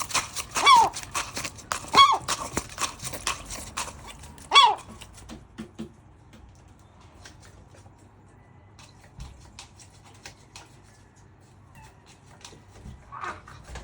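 Gull calling: three loud, short calls in the first five seconds, each dropping in pitch, and a fainter call near the end, among many sharp clicks and taps.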